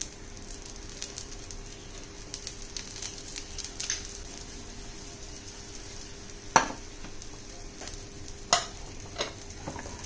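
Egg omelette frying in a pan with oil just added around its edge: a steady sizzle with small crackles and spits. A wooden spatula knocks against the pan a few times, sharply about six and a half and eight and a half seconds in.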